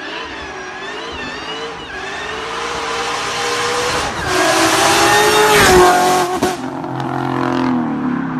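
Car engine revving and accelerating, its pitch rising and falling with the throttle. From about four to six and a half seconds in, a louder stretch of rushing noise with tyre squeal.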